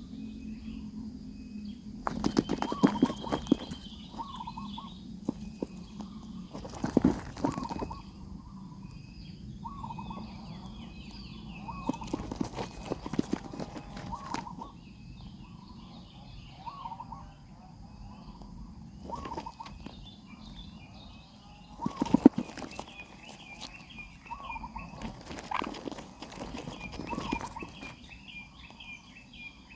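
Birds chirping: short wavy calls repeated every second or two, over fainter high-pitched twittering, with scattered knocks and scuffling that are loudest about two, seven and twenty-two seconds in.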